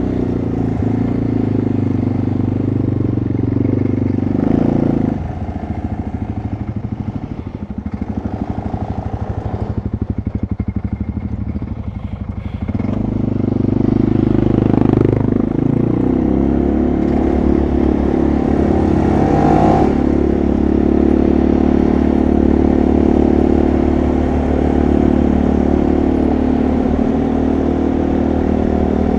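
Quad bike (ATV) engine running while riding. About five seconds in it drops to a lower, pulsing note for several seconds, then picks up and pulls harder again.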